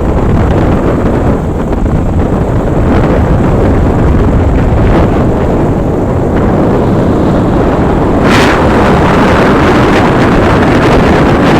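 Strong wind buffeting the microphone, a loud, steady rumble that grows brighter and harsher about two-thirds of the way through.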